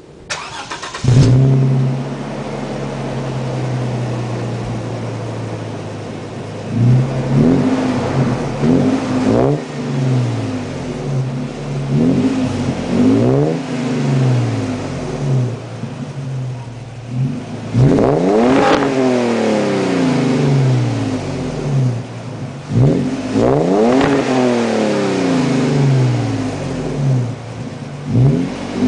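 2005 Toyota Tundra's engine through a custom Magnaflow exhaust with 3-inch piping and a racing resonator. It starts about a second in and idles steadily, then from about seven seconds in it is revved again and again, each blip rising and falling in pitch.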